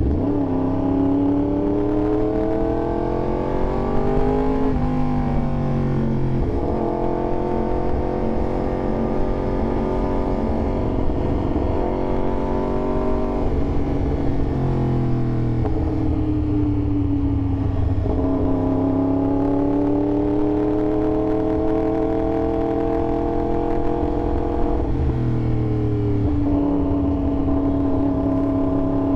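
Yamaha R1 sport bike's inline-four engine under way. Its pitch climbs over the first few seconds and drops sharply around five seconds, like a gear change. It holds and climbs again, falls away slowly in the middle, rises from about eighteen seconds, and drops sharply again near the end.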